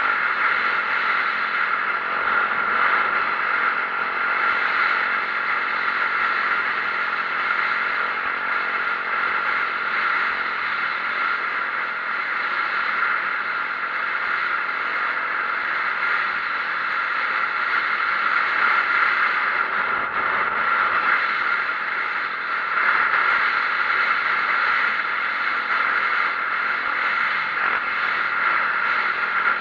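2004 Yamaha YZ450F four-stroke single-cylinder dirt bike being ridden, its engine running under a loud, even rush of noise that holds steady throughout.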